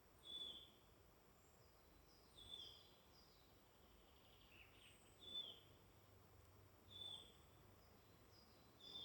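Faint woodland birdsong: one bird repeats a short, falling call about every two seconds, five times, with fainter, higher calls from other birds in between and a low background hush.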